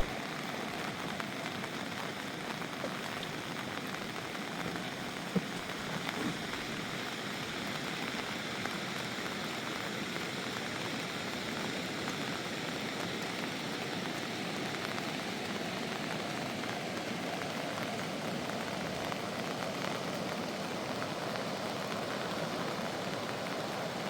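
Steady rain falling, an even hiss with a faint knock or two about five to six seconds in.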